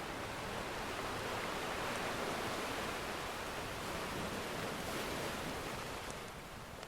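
Ocean surf washing in and out, one wave swelling over the first few seconds and easing off. A few faint crackles from a wood fire come in near the end.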